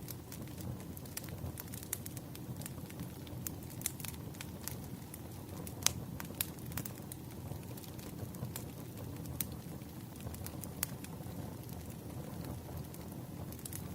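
Fireplace crackling steadily: a low rumbling bed of flame with frequent irregular sharp pops and snaps, one louder pop about six seconds in.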